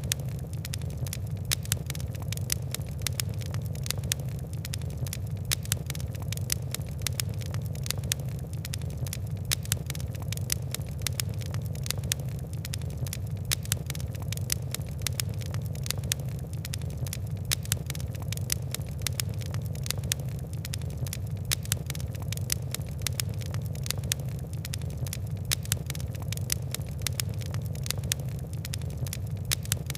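Fire crackling steadily: many small, sharp, irregular ticks and pops over a constant low rumble of burning.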